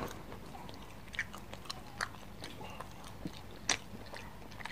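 A person chewing and biting grilled barbecue meat off a skewer close to the microphone: soft, scattered mouth clicks and smacks, with a sharper click near the end.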